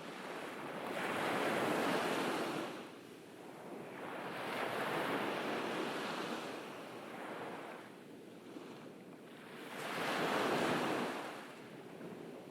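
Ocean waves breaking and washing up a beach, in three swells of surf noise that rise and fall: one about a second in, one around the middle, and one near the end.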